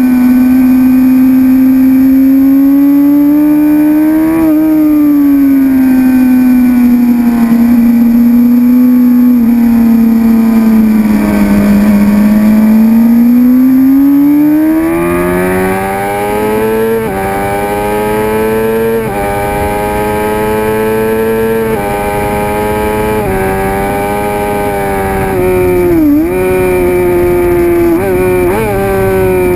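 A 2006 Suzuki GSX-R750's inline-four engine running hard on track. Its note holds fairly steady, dips, and then climbs through several quick gear changes, each a rise in pitch followed by a drop. Near the end come two sharp dips and recoveries in revs.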